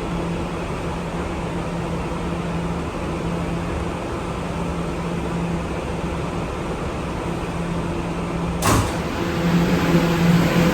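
Steady hum and running noise of an R211 subway train with a constant low drone. About nine seconds in comes one sharp clack, after which the noise grows louder.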